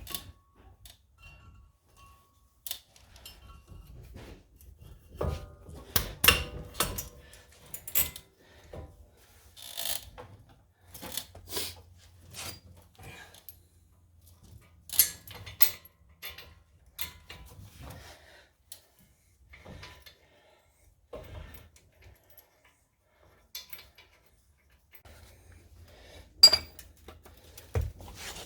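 Hand tools and metal car parts clinking and knocking as they are handled, in scattered irregular clicks with quiet gaps, the sharpest about six seconds in and near the end.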